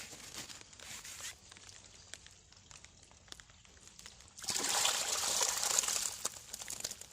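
Faint rustling and small clicks, then about halfway through water pouring and splashing for about two seconds, as the day's catch of fish is lifted out of the water.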